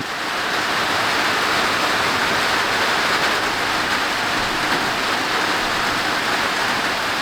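Heavy rain pouring down steadily onto the roof overhead, a dense, even hiss and patter with no let-up.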